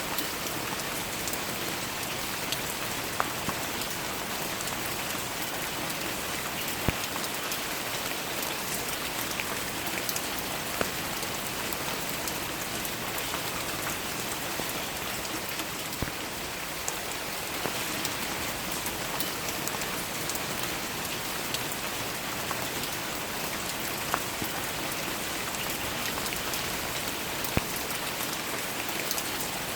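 Steady rain falling, an even hiss of many drops, with single louder drops tapping close by every few seconds at irregular moments.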